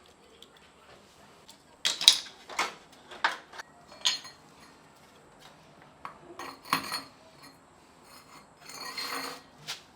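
Hard objects clinking and clattering as they are handled: a quick run of sharp knocks about two seconds in, another cluster a few seconds later, then a brief scrape and a last click near the end.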